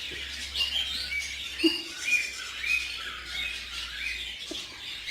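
A bird chirping over and over in short, high calls, about two a second, until the sound cuts off suddenly at the end.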